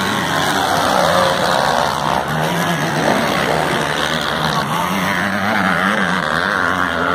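Several open-class racing motorcycles (250 and 450 cc off-road bikes) running hard around the track together, their overlapping engine notes rising and falling as they accelerate and back off.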